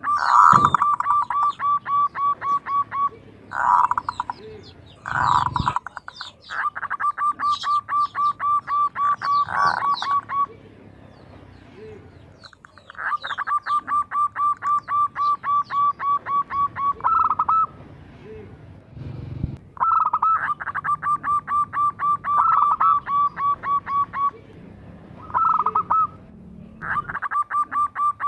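Zebra dove (perkutut) singing its cooing song in repeated bouts of rapid, even notes, about five a second, each bout lasting a few seconds with short pauses between. Fainter high chirps of small birds sound in the background.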